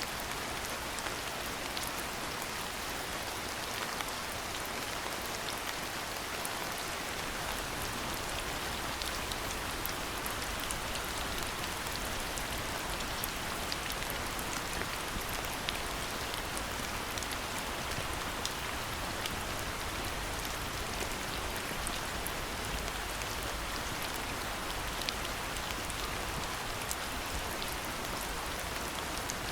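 Steady rain falling in an even hiss, dotted with many small, sharp drop ticks.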